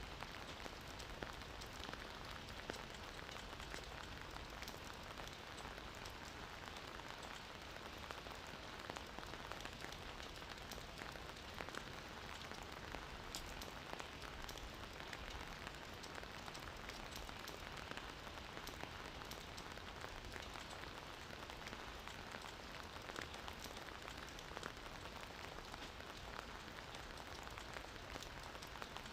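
Steady gentle rain falling on a surface, an even patter with many small drop ticks.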